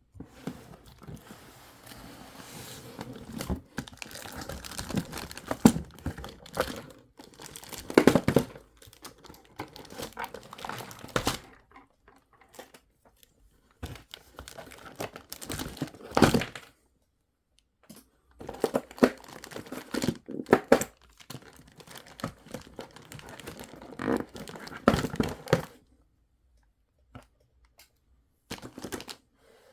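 Toy packaging being worked open by hand: irregular crinkling, rustling and tearing of plastic and cardboard, with a few short pauses.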